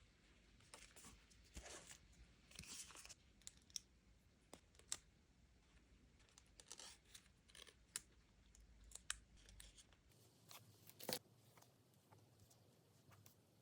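Quiet rustling and scattered sharp little clicks and snaps of paper and stickers being handled and peeled for diary decorating, with the sharpest snap about eleven seconds in.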